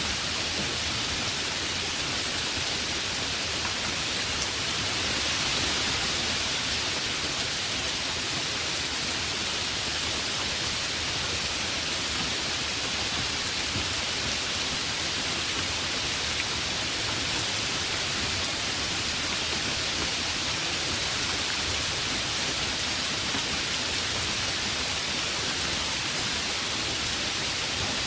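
Heavy rain falling steadily, an even dense hiss of drops that swells slightly about five seconds in.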